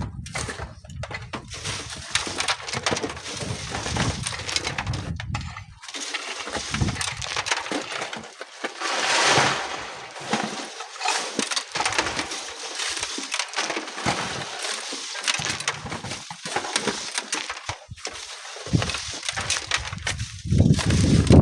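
Gritty crunching and scraping of sand and stones being worked, with a hissing pour about nine seconds in. Wind rumbles on the microphone at the start and again near the end.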